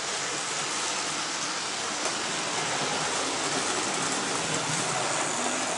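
Hornby model trains running on the layout's track: the steady whir of their motors and wheels on the rails.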